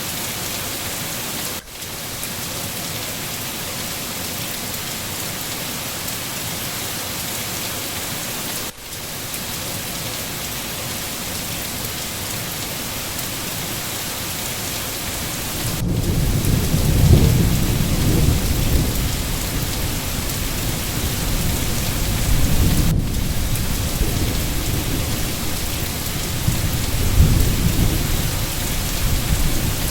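Steady heavy rain, broken by a few momentary gaps, with low rolling thunder coming in about halfway through and swelling and fading several times.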